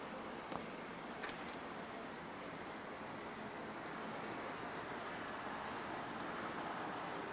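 Steady background hiss with a faint, high, evenly pulsing drone over it, and two faint clicks about half a second and a second and a quarter in.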